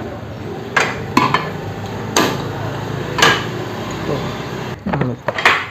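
A few sharp metallic clinks and knocks of hand tools and metal parts being handled, spread irregularly, about five in all.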